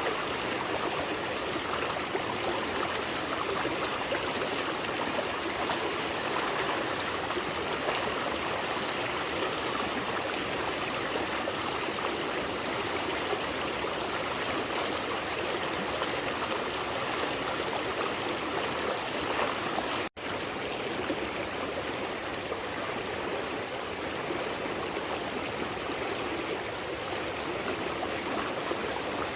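Steady rushing of a flowing stream, cutting out for an instant about twenty seconds in.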